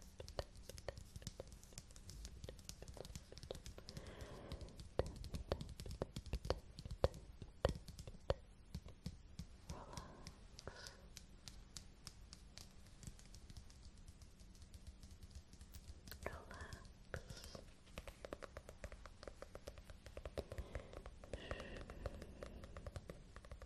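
Close-miked fingertip and fingernail tapping and scratching: a quick run of many small clicks, busiest around five to eight seconds in.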